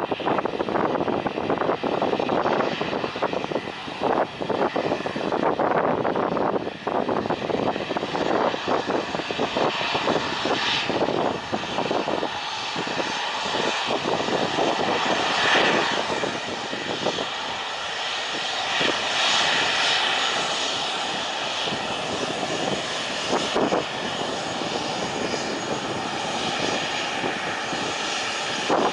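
Airplane engines running loud and steady at close range, a dense rush of engine noise with a faint steady whine on top.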